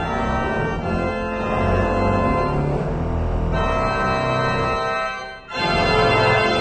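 Organ playing full sustained chords. It breaks off briefly about five seconds in, then a new chord sounds.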